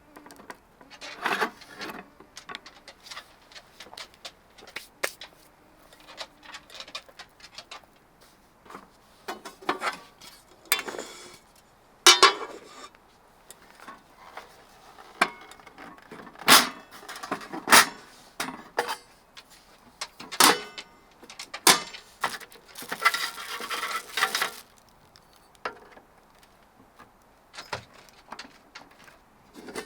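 Camp gear being handled by hand: a string of separate knocks, clinks and rattles, with a longer run of metallic clatter and ringing a little past the middle.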